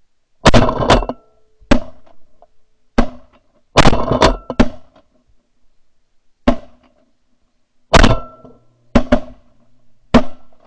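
Repeated shotgun blasts from several hunters firing at incoming ducks, about a dozen sharp, loud shots in quick clusters of two or three spread through the ten seconds.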